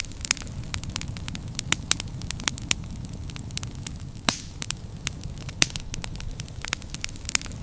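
Firewood burning in a bonfire, crackling with frequent sharp, irregular pops over a steady low rumble, one louder pop about four seconds in.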